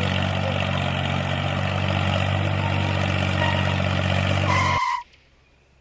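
A small engine running steadily with a low, even drone, cutting off suddenly near the end.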